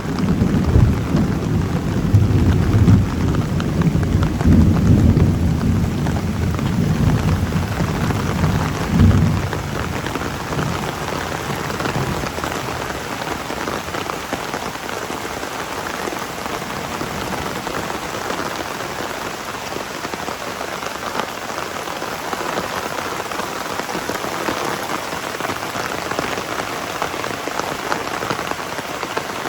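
Heavy rain falling steadily, with a long roll of thunder rumbling under it for the first ten seconds or so, swelling several times before fading away.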